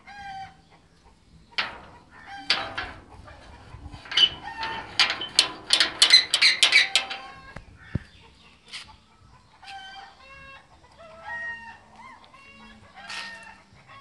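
Birds calling: a few harsh calls, then a loud run of rapid harsh calls in the middle, followed by short pitched calls that rise and fall.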